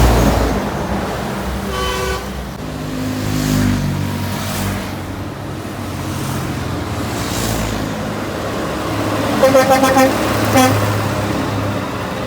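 Trucks passing on a highway: a steady low engine and road rumble, a short horn toot about two seconds in, and a few louder horn blasts near the end.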